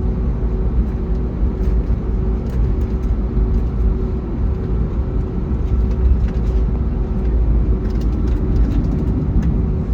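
Cabin noise inside an Airbus A321neo on the ground with its Pratt & Whitney geared turbofan engines running: a steady low rumble with a steady hum over it, and a few faint ticks near the end.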